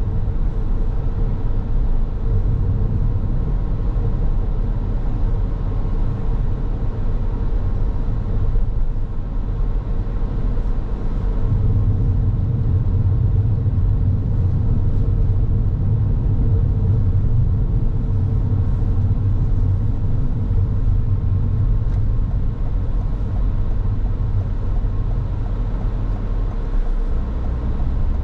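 Car driving along a road: steady low rumble of tyres and engine, with a faint steady hum above it.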